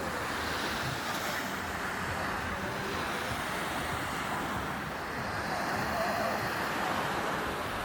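Sea surf washing onto a beach: a steady rush of waves.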